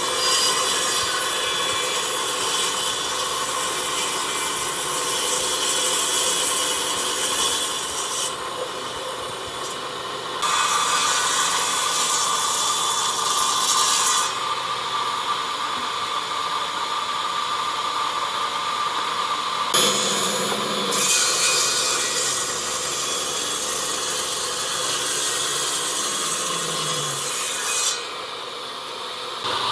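A power tool working wood: steady abrasive running noise that shifts in strength at a few points, dipping briefly near the end.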